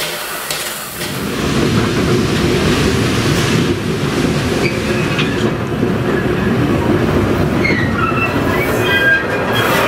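Train rolling along the track: a steady rumble of wheels on rail that swells about a second in, with thin, high wheel squeal coming in near the end.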